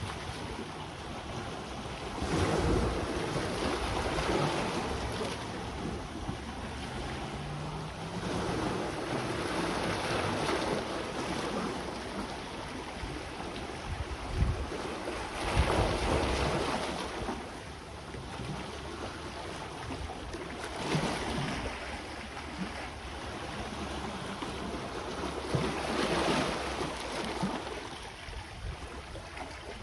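Sea waves washing ashore, the surf swelling and falling back about every five to six seconds, with wind buffeting the microphone.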